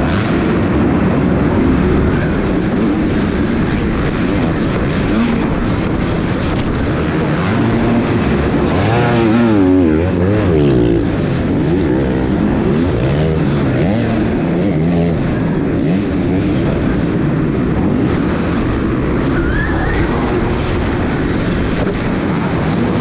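Several dirt bike engines running and revving on a race track, their pitch rising and falling, with the strongest swells of revving near the middle.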